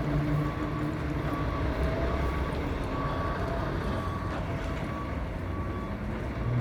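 Scania P360 fire engine running at low speed, with its reversing alarm beeping about once a second as it backs in.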